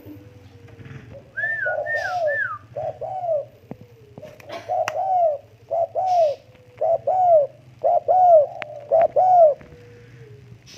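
Spotted dove cooing: a repeated series of low coos, each rising and falling in pitch, delivered in short phrases about once a second.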